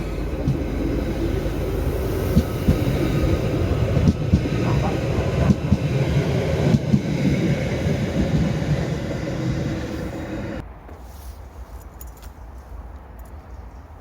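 A train passing close by: a loud rumble with many short knocks from the wheels on the track and a few steady tones above it. The sound cuts off suddenly about ten and a half seconds in, leaving a much quieter background.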